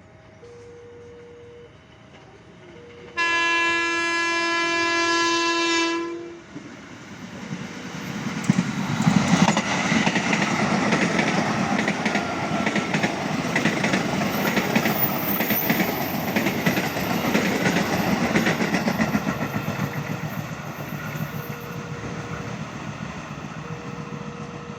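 A train's horn sounds one long, steady single-tone blast of about three seconds: the S35 horn signal. The train then passes close by, rumbling, its wheels clattering over the rail joints. It is loudest a few seconds after the horn and fades toward the end.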